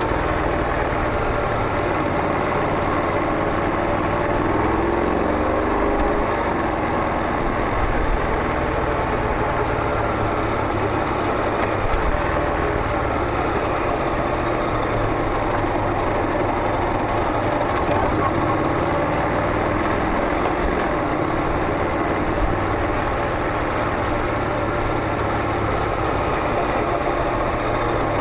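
Honda NC700X DCT's 670 cc parallel-twin engine idling steadily through an aftermarket Beams slip-on muffler.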